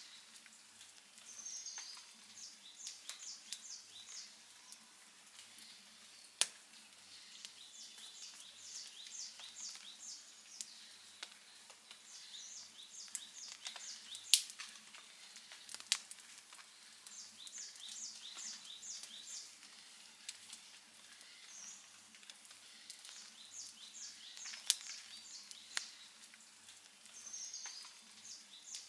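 Campfire crackling with scattered sharp pops, the loudest about fourteen seconds in. Over it, a high-pitched call repeats in quick runs of short chirps every few seconds, from an animal calling outdoors.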